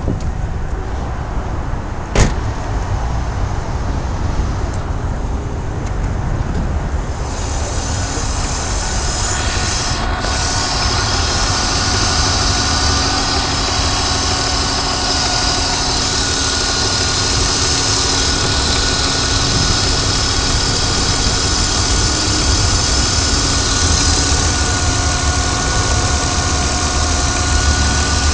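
BMW 323Ci's 2.5-litre straight-six running with a steady high whine, the unexplained noise the owner is trying to diagnose. It has one sharp click about two seconds in, and the whine and hiss grow louder about seven seconds in.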